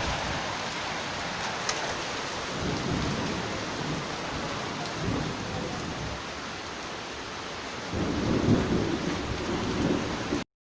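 Heavy rain pouring steadily, with low rumbles swelling about two and a half seconds in and again near the end. The sound cuts off suddenly just before the end.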